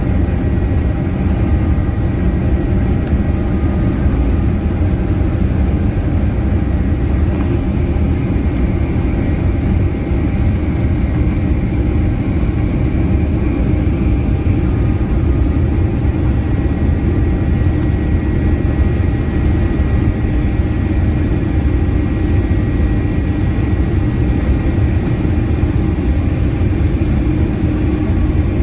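Steady cabin noise aboard a Boeing 787-8 airliner: a constant rumble of engines and airflow, with a few faint steady tones above it.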